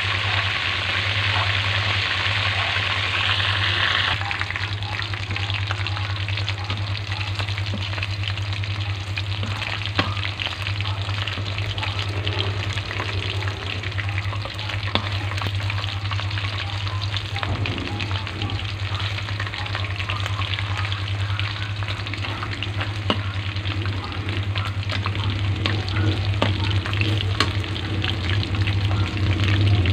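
Battered chicken pieces frying in hot oil in a pan: a steady dense crackling sizzle, loudest in the first four seconds, then settling. It runs over a steady low hum, with a few sharp clicks of metal tongs against the pan as the pieces are turned.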